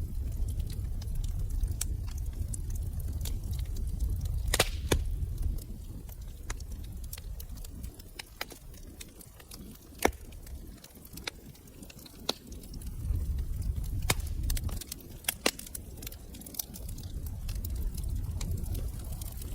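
Wood fire in a fireplace crackling: irregular sharp pops and snaps over a low rumble of burning, which eases off for a few seconds midway and then comes back.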